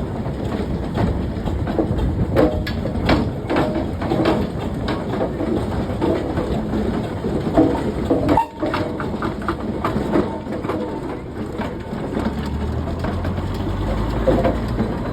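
Steam traction engine working: continuous mechanical clatter with many irregular knocks and clanks, and a low rumble setting in about twelve seconds in.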